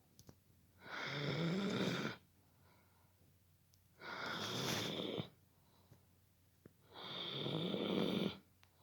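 Dobermann snoring: three snores about three seconds apart, each lasting a little over a second, with quiet pauses between them.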